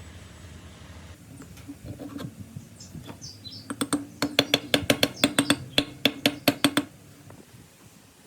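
A quick run of sharp metallic clicks or taps, about seven a second for some three seconds, over a low steady hum; a few scattered knocks come before it.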